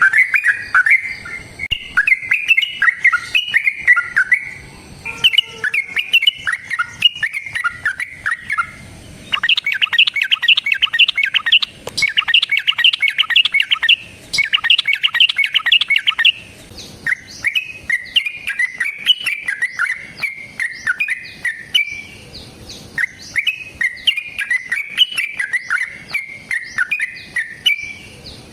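Yellow-vented bulbul (trucukan) singing loud, bubbly chattering phrases. About ten seconds in it breaks into a fast, continuous rolling trill for around seven seconds, then returns to the phrased song.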